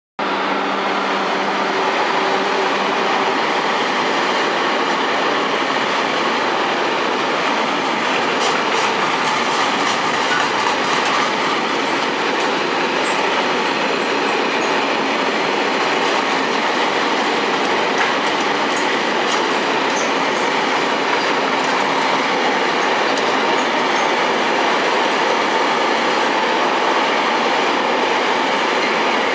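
Freight train of wagons rolling past at speed: a steady, continuous noise of steel wheels on rail, with brief faint high squeals from the wheels here and there.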